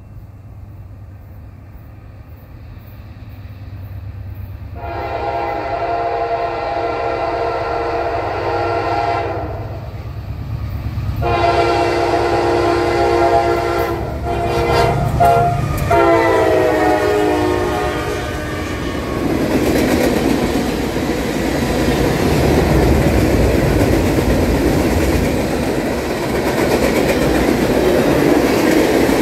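Norfolk Southern freight train approaching and passing: the lead locomotive's air horn sounds in two long blasts and then shorter ones, its pitch falling as the engine goes by, over the growing diesel rumble. From about two-thirds of the way through, loaded freight cars roll past with wheels clacking over the rail joints.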